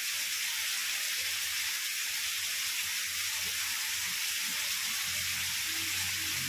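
Heavy rain falling steadily, an even hiss, with a faint low rumble coming in about a second in and growing near the end.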